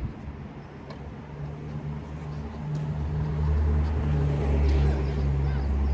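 A motor vehicle engine running nearby as a low, steady hum, growing louder from about halfway in. A single sharp knock sounds right at the start.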